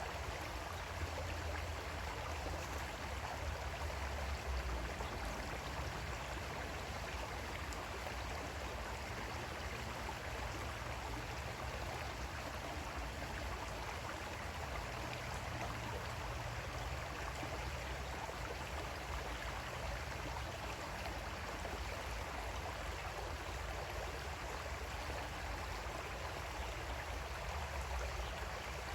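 Creek water flowing steadily over stones, an even rushing with a low rumble underneath.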